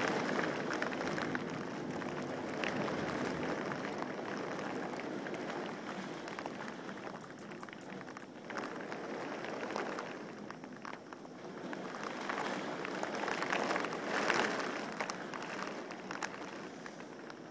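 Rain falling steadily, with many sharp drop ticks scattered through it; the rain gets louder briefly around the middle and again a little before the end.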